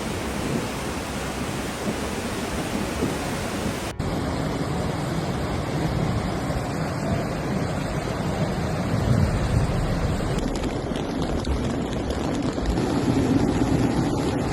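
Steady rushing of a mountain river in flood, a fast, swollen torrent of water. The sound shifts abruptly about four seconds in and again near ten seconds.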